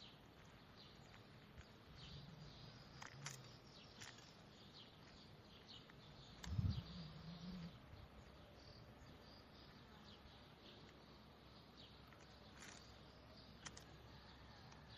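Faint small birds chirping in scattered short calls over a steady background hiss, with a brief low thump about halfway through.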